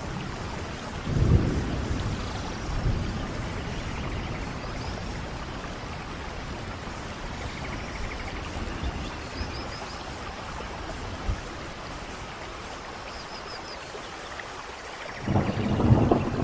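Steady rain in a rainforest thunderstorm, with thunder rumbling about a second in and a louder roll of thunder breaking out near the end.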